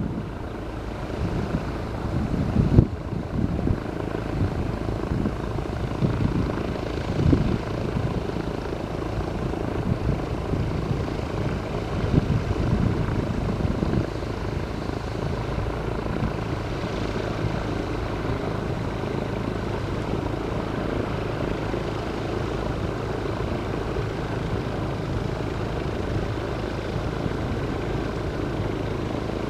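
Piston engine and propeller of a light single-engine airplane running at a steady drone, with gusts of wind on the microphone over the first half.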